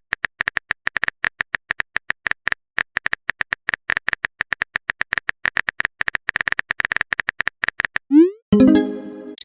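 Rapid run of keyboard-typing clicks, roughly ten a second. About eight seconds in they give way to a short rising bloop and then a chime of several tones that fades out: a message-sent notification.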